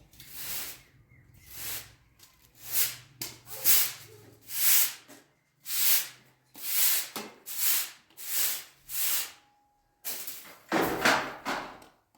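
Repeated rubbing swishes, roughly one stroke a second, each lasting about half a second, with a short pause near the end.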